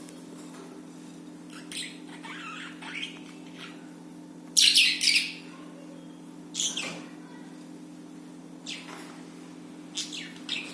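Budgerigars chirping in short, scattered calls, the loudest burst about halfway through, over a steady low hum.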